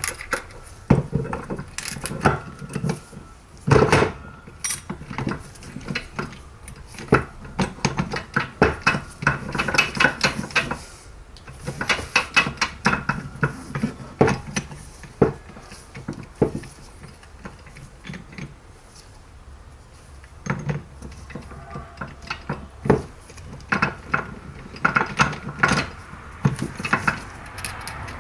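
Metal parts and tools being handled during an automatic transmission rebuild, with irregular clinks, clatters and knocks. The clatter thins out for a few seconds past the middle, then picks up again.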